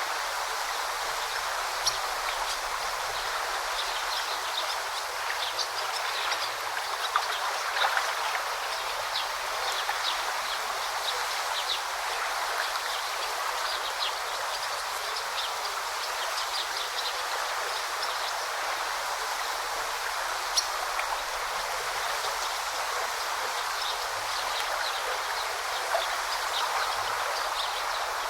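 Forest river flowing steadily, a continuous rush of water, with small birds chirping now and then.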